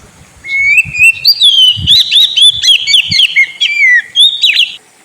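Oriental magpie-robin (kacer) singing a fast, varied run of whistles and chirps that starts about half a second in and cuts off suddenly near the end.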